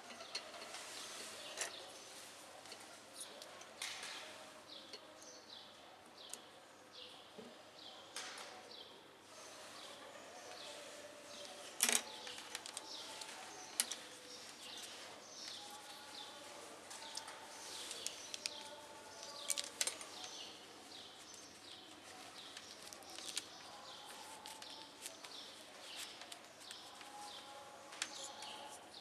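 Small birds chirping over and over in short falling notes, with a few sharp clicks and taps as glass, clips and metal are handled; the loudest click comes about twelve seconds in.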